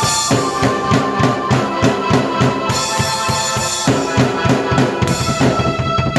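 Drum kit and keyboard played together: a fast, steady beat on bass drum and snare under held keyboard chords.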